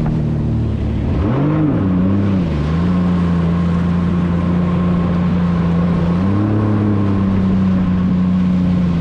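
Jet ski engine running at speed, its pitch swelling up and dropping back about a second and a half in, then holding steady and stepping up slightly around six seconds in.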